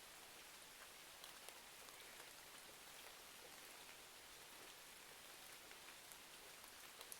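Faint, steady rain hiss with scattered small crackles and ticks from a fireplace.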